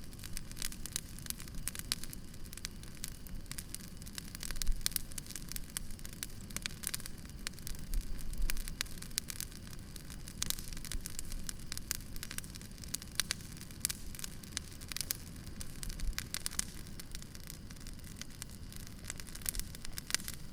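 Wood campfire crackling, with irregular sharp pops and snaps over a steady low rumble of the burning fire; a couple of louder moments about five and eight seconds in.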